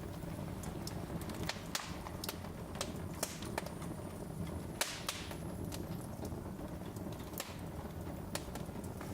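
Wood fire crackling: irregular sharp snaps, about one or two a second and a few louder ones, over a steady low rumble of burning.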